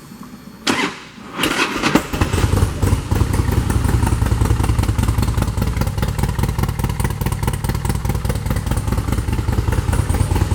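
2007 Harley-Davidson Softail Springer Classic's big-bore Twin Cam V-twin, fitted with compression releases, is started. There is a click, then a brief crank, and it catches about two seconds in. It then idles with a steady low, even pulse.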